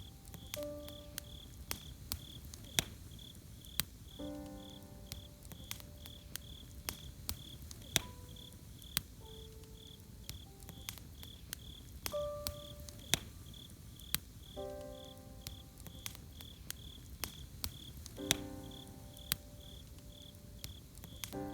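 Campfire crackling with sharp, irregular pops while crickets chirp steadily in a high, even pulse of about two to three chirps a second. Soft background music enters with gentle chords every few seconds.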